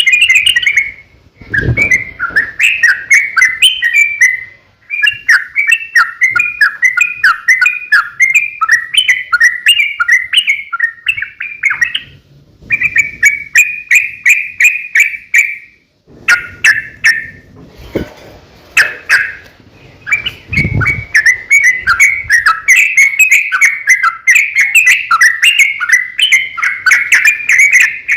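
Yellow-vented bulbul (trucukan) singing a long, rapid run of bubbling, chattering chirps, broken by short pauses about twelve and sixteen seconds in. A few low dull thumps come near the start and around the eighteen- and twenty-one-second marks.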